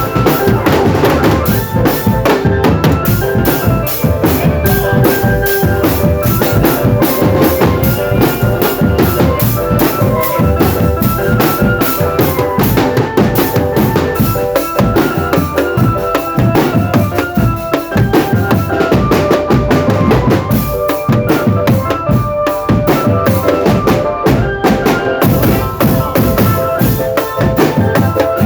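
Marching drum band playing: rapid snare and bass drum beats, with a melody carried over the drumming.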